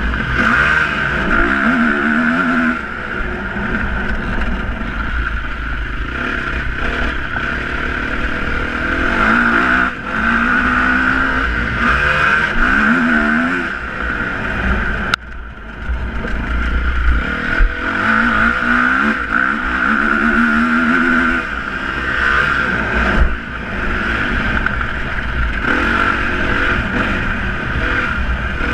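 Motocross motorcycle engines revving, the pitch climbing and dropping again and again as the throttle is worked. A sharp click and a brief drop in level come about halfway through.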